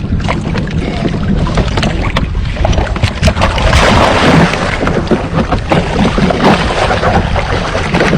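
Wind buffeting the microphone over water splashing and sloshing around a kayak, with scattered knocks.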